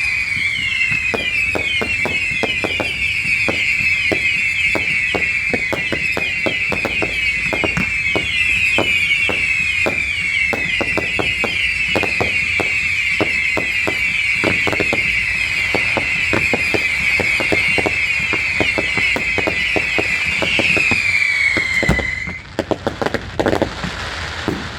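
Whistling fireworks going off in a dense barrage: many screeching whistles overlapping, each falling in pitch, over rapid bangs and crackles. The whistles stop suddenly about 22 seconds in, leaving a few scattered bangs.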